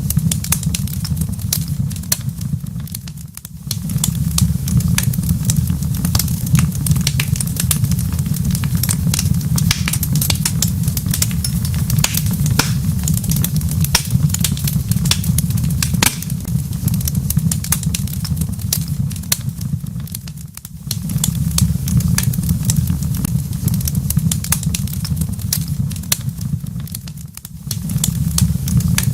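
Wood fire crackling in a fireplace: a steady low rumble with many quick pops and snaps, dipping briefly quieter three times.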